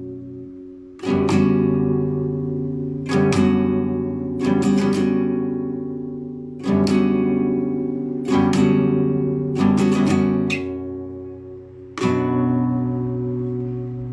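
Solo guitar improvisation: about seven chords struck or quickly rolled, one every one to two seconds, each left to ring and fade before the next.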